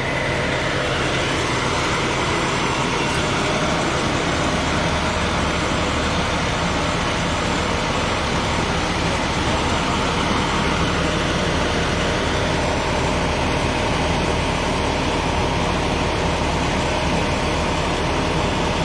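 A large vehicle's engine idling steadily, with a constant low hum under an even wash of noise.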